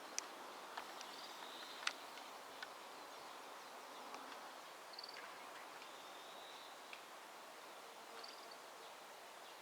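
Faint outdoor background with short, high chirps about three times and a few light clicks in the first two seconds.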